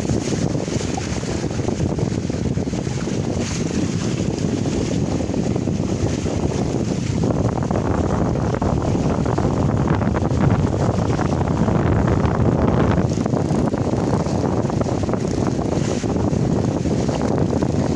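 Strong force-5 wind, about 10 m/s, buffeting the microphone on a sailing catamaran under way, a loud steady roar with water rushing along the hulls beneath it.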